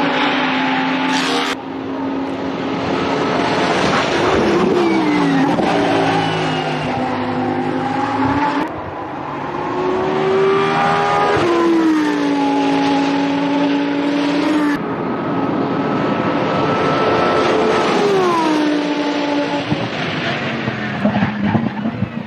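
Lamborghini Essenza SCV12's naturally aspirated V12 race engine at high revs, its note held steady and then falling sharply three times as the car lifts or brakes, with abrupt changes between shots.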